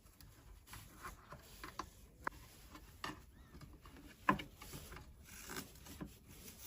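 Scattered small clicks and rubbing as hands work on the wiring inside an opened electric pressure cooker, taking out its blown thermal fuse. The sharpest click comes a little after four seconds in.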